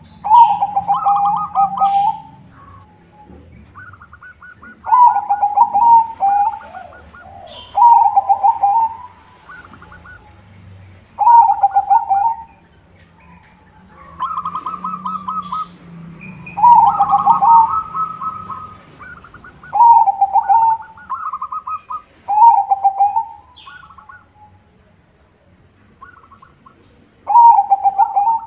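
A white perkutut (zebra dove) singing its rhythmic, stuttering coo song. Loud phrases of a second or two repeat about every three seconds, each with higher pulsed notes followed by a lower rolling coo.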